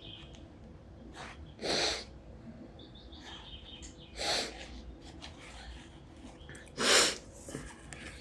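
Three short, sharp breath noises about two and a half seconds apart, the last the loudest, with faint bird chirps in the background.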